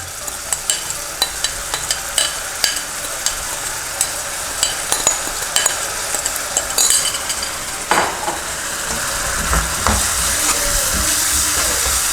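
Sautéed onions and vegetables sizzling in a hot pan while a spoon stirs them, with frequent sharp clicks and scrapes of the spoon against the pan. The sizzle grows louder from about eight seconds in.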